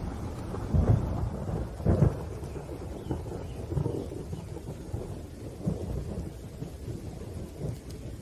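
Thunder rolling over steady rain: two loud claps about one and two seconds in, then a rumble that slowly dies away.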